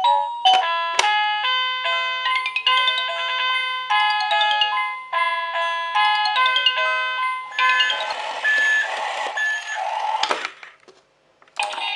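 Electronic toy playing a simple beeping melody in quick rising and falling runs of clean tones, with a noisier jingle about eight seconds in. It stops briefly near the end, then starts again.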